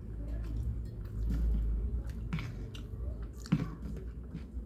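A person chewing a mouthful of egg noodles and rice close to the microphone, with soft wet clicks and one sharp click about three and a half seconds in.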